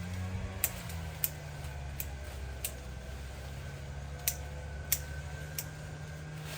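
A steady low engine hum, with seven sharp clicks or snaps spaced irregularly over it.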